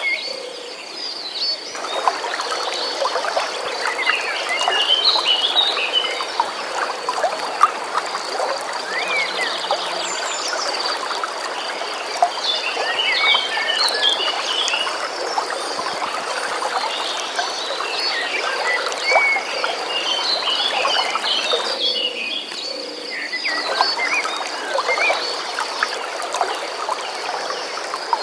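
Birds chirping and singing over flowing, trickling water, with a steady high-pitched trill running underneath. The water sound thins out briefly near the start and again about 22 seconds in.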